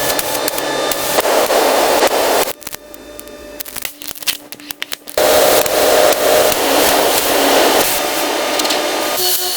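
A power tool running with a steady, noisy whine, stopping for about two and a half seconds in the middle with a few knocks, then starting again.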